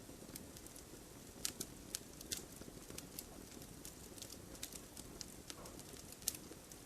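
Firewood burning with a steady low hiss and irregular sharp crackles and pops, a few louder pops scattered through.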